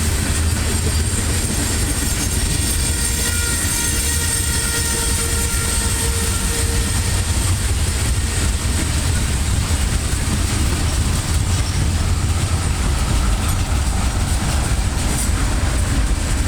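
Freight cars of a CSX train rolling past with a steady low rumble and rail noise. A faint high-pitched wheel squeal comes in from about two to seven seconds in.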